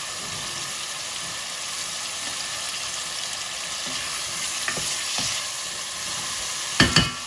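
Cubed lamb sizzling steadily as it sears in hot oil and garlic-ginger paste in a pot. Two sharp, ringing clanks come near the end.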